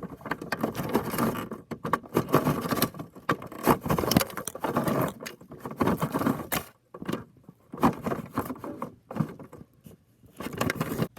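Miniature rear-loader garbage truck being handled: irregular plastic clicking, rattling and scraping, with a couple of short pauses.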